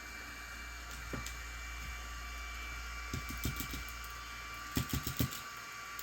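Small sharp clicks and taps of tools and phone parts being handled during smartphone disassembly: one about a second in, a few together a little after three seconds, and a louder quick run of four or five near the end, over a steady background hiss.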